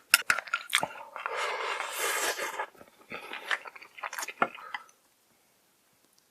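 A person eating close to the microphone: biting and chewing with crunches and wet clicks, stopping about five seconds in.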